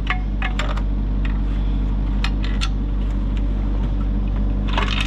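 The diesel engine of a heavy forestry machine running steadily, with sharp metallic clinks in the first second and again around two seconds in. A loud hiss starts near the end.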